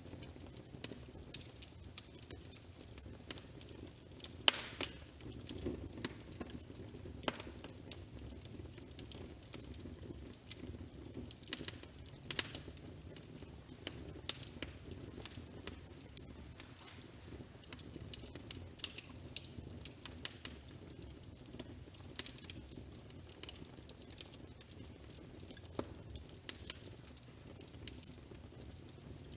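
Wood fire crackling in a fireplace: irregular sharp pops and snaps over a low steady rumble, the loudest pop about four and a half seconds in.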